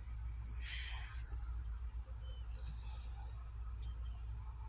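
Crickets singing in one steady, high-pitched drone, with a low rumble underneath and a brief rustle about a second in.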